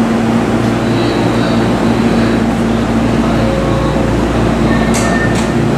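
Tokyo Metro 10000 series train standing at the platform with its doors open, its onboard equipment giving a steady low hum over the station's background noise. Two short sharp clicks come about five seconds in.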